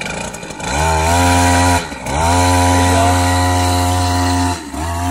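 Small kids' dirt bike engine revving up and held at high revs with the throttle held open, backing off briefly about two seconds in, then held high again before dropping off and blipping once more near the end.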